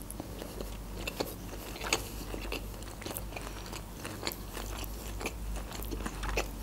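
A person chewing a mouthful of battered fried shrimp, with wet chewing and a sharp, crisp crunch every so often.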